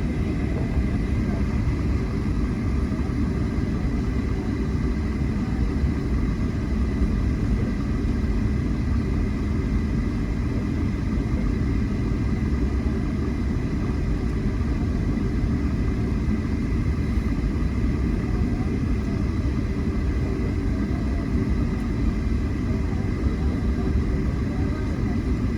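Steady cabin noise inside a jet airliner: a constant low rumble from the engines and airflow, with faint steady whining tones above it.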